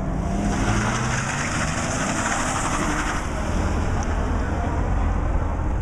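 A car engine running hard through an autocross course, steady low engine sound throughout, with a stretch of hissing noise over the first half.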